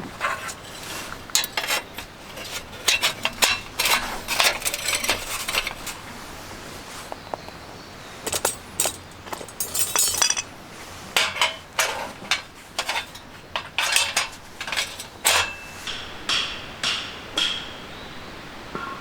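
Irregular metallic knocks and clinks, a few strokes a second in clusters, some with a short ringing tone near the end.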